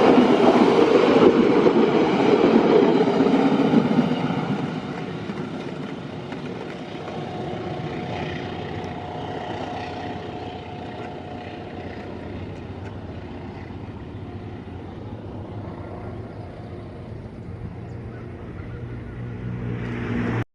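A train passing on the track: loud rolling wheel noise for about the first four seconds, then fading to a quieter, steady rumble as it draws away.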